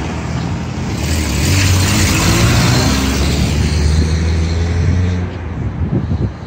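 A large diesel engine running close by, with a rushing noise over it. The sound drops off about five seconds in.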